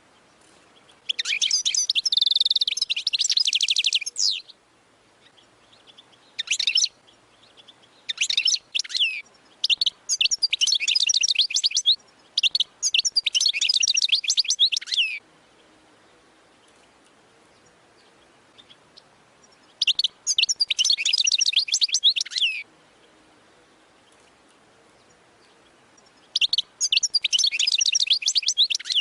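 European goldfinch singing a Wadani-style song in bursts of rapid, high twittering phrases a second to a few seconds long, with pauses of several seconds between them.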